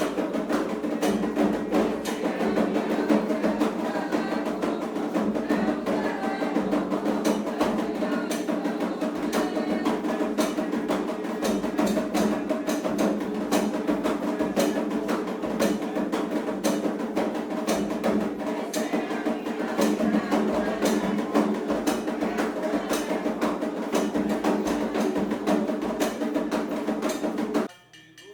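Candomblé ritual drumming: atabaque hand drums played in a fast, dense, steady rhythm, cutting off abruptly near the end.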